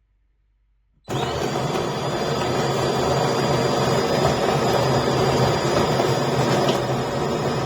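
De'Longhi Dinamica Plus bean-to-cup coffee machine starting up about a second in and running loudly and steadily, a mechanical whirr with a thin high whine over it.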